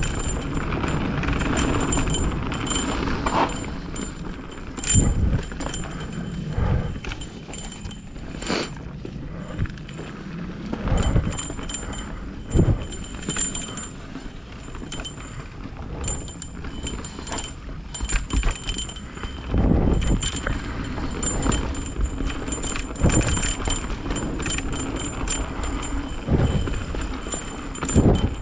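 Mountain bike riding down a trail: steady tyre and wind noise broken by irregular knocks and rattles as the bike hits bumps every few seconds.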